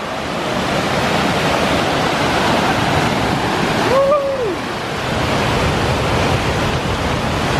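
Whitewater rapids of a steep mountain torrent rushing loudly and steadily. About four seconds in, a short call rises, holds and falls over the water noise.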